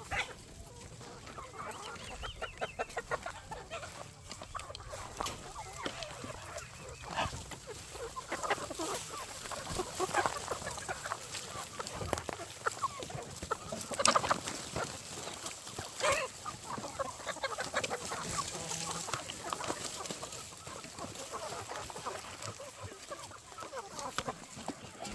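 A flock of chickens clucking and calling, with many short overlapping calls and a few louder squawks.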